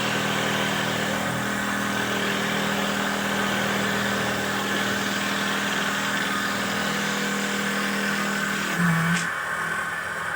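Handmade wooden dowel-making machine running: a steady motor hum with a hissy cutting noise over it. A little before the end comes a brief louder burst, after which the hiss eases off.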